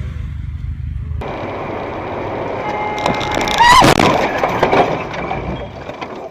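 Dashcam audio of a car on a winter road: steady road and engine noise, then a loud collision impact a little over halfway through, followed by about a second of clattering.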